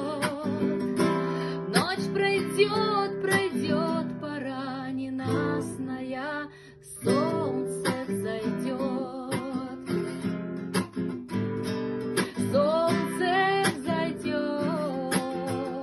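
Music: an acoustic guitar strummed steadily while a woman sings a wavering melody, with a short break about six and a half seconds in before both come back.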